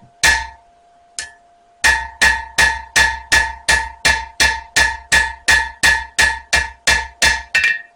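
Hand hammer striking a spring-steel knife blade on the anvil to put back the peen-mark texture. There is one ringing blow, then a steady run of about sixteen ringing blows, roughly two and a half a second.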